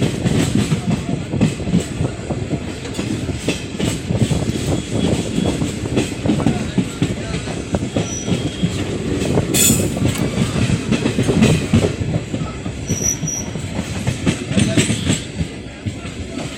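Train wheels clattering over the rails in a steady rumble of many clicks, with one sharp metallic clank about ten seconds in.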